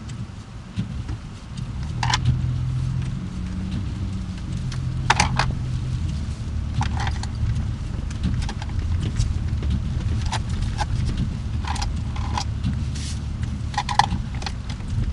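Car driving slowly, heard from inside: a steady low engine and road rumble, with short clicks and rattles at irregular intervals.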